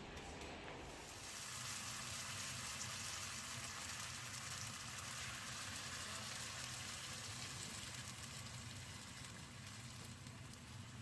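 Marinated pork bulgogi sizzling in a pan, a steady frying hiss that sets in about a second in.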